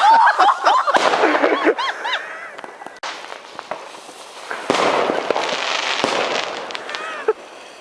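Fireworks going off: crackling, hissing bursts with sharp pops and short whistling tones. They come in two spells, the first over the opening two seconds or so and the second from about five to seven seconds in.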